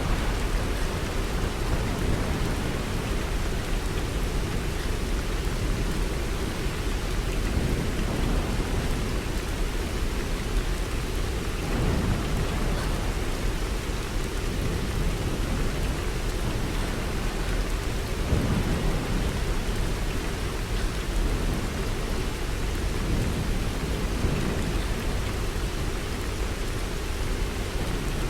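Steady rain falling, with low rumbles of thunder underneath that swell a few times.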